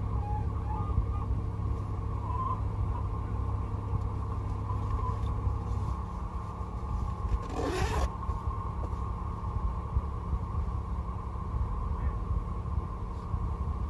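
Steady low road-and-engine rumble of a moving car as heard by a dashcam inside it, with a faint steady whine above it. A short sweeping sound rises and falls a little past halfway.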